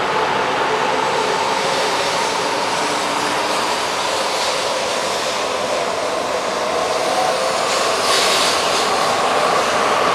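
E4 series bilevel Shinkansen train running, its motor whine slowly rising in pitch under a steady rushing noise, with a short burst of hiss about eight seconds in.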